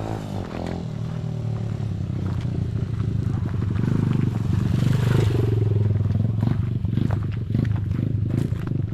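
A small engine vehicle passes close by, its pulsing engine note growing louder to a peak about five seconds in, then fading.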